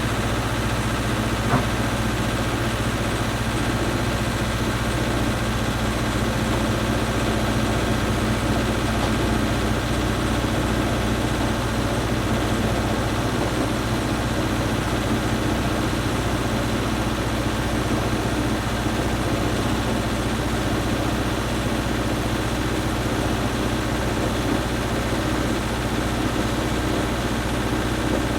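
An engine idling steadily with an even low hum, with one brief click about a second and a half in.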